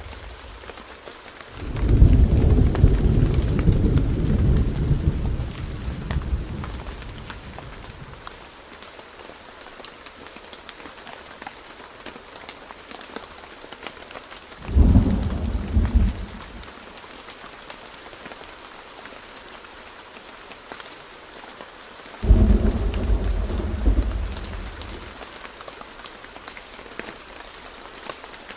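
Xiaomi Weather app's thunderstorm sound effect: steady rain hiss with three low rolls of thunder. The first and longest comes about two seconds in, a short one about fifteen seconds in, and another about twenty-two seconds in.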